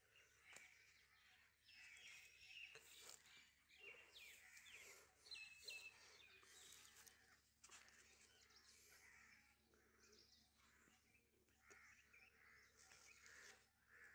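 Near silence, with faint bird chirps and a few faint clicks.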